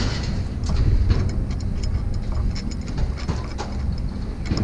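A steady low engine rumble, with scattered light metallic clicks and clinks from scrap metal parts being handled.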